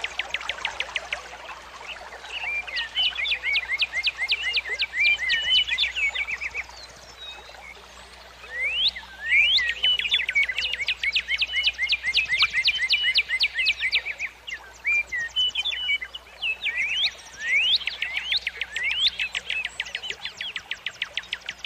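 Songbird singing: phrases of rapidly repeated, sweeping high notes, each lasting a few seconds, with short pauses between them, the longest about a third of the way in.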